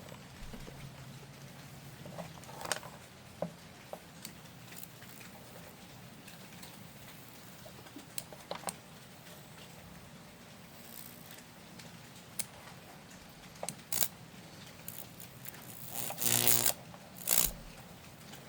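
Lichtenberg burn on wet wood driven by a neon sign transformer: a faint low electrical hum with scattered sharp crackles, and louder buzzing bursts near the end. The wood is still so damp that it is burning slowly.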